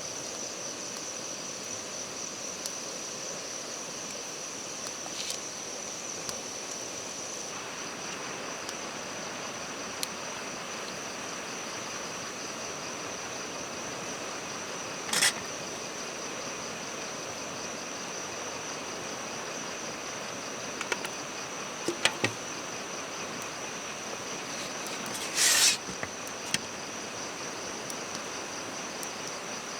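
Insects chirring steadily in one high, even tone over a soft background hiss, broken by a few brief clicks or knocks, the loudest about 25 seconds in.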